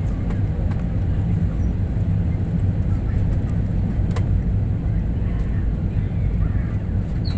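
Steady low rumble of an IndiGo airliner heard inside the passenger cabin, with a faint click about four seconds in.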